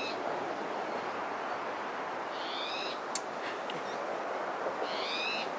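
A bird calling three times, about every two and a half seconds: a short, high note that falls slightly, over a steady background hiss. A single sharp click sounds a little past the middle.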